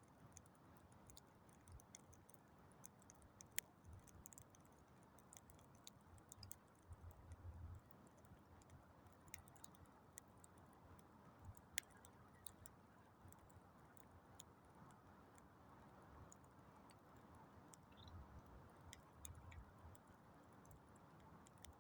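Campfire crackling quietly: scattered, irregular snaps and pops over a soft hiss, with a few sharper pops standing out.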